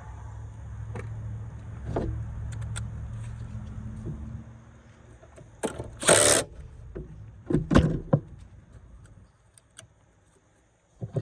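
A car engine idling with a steady low hum that dies away about four seconds in, followed by a few loud knocks and clatters and a last click near the end.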